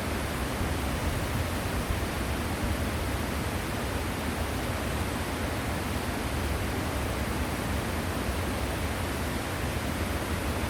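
Waterfall pouring steadily: an even rushing of falling water, heaviest in the low end, with no breaks or changes.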